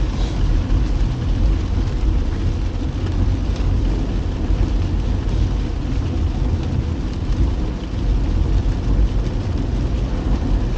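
Steady rain on a moving car, over a low, even rumble of tyres and engine.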